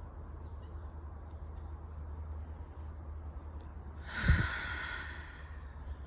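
A woman's breathy sigh about four seconds in, a single exhale that fades over about a second, over a steady low rumble.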